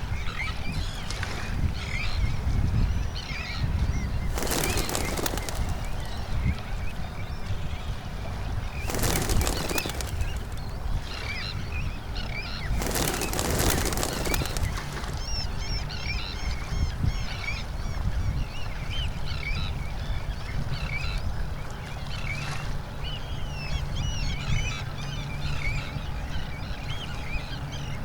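A flock of birds calling over and over in many short chirping calls, over a steady low rumble. Three loud rushing noises cut in about 4, 9 and 13 seconds in, and a low steady hum joins in the second half.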